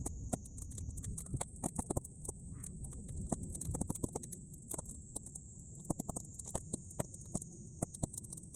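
Bonfire of half-dried weeds crackling, with frequent irregular sharp pops over a low rumble of flames and wind and a steady high-pitched hiss, sped up to triple speed.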